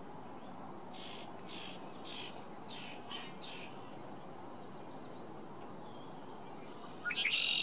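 A songbird sings a quick run of about seven falling high notes over a steady outdoor hiss. Near the end a louder, high-pitched call with several tones sets in, opening with a fast upward sweep.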